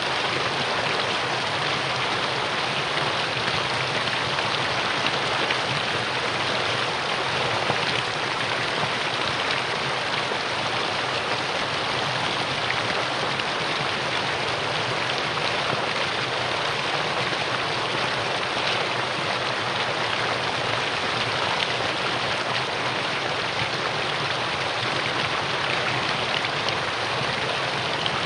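Mountain stream water rushing over rocks, a steady, even rushing sound.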